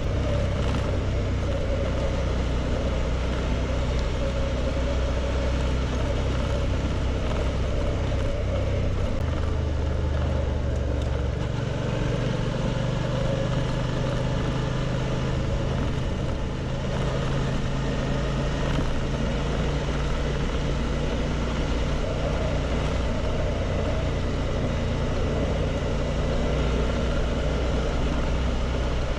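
Suzuki V-Strom 650's V-twin engine running steadily, its note shifting to a different pitch about twelve seconds in.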